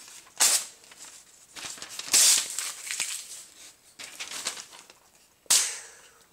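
Knife blade slicing through thin phone book paper, with the paper rustling and crinkling: three sharp slicing strokes, about half a second, two seconds and five and a half seconds in, the middle one the loudest, with softer rustles between.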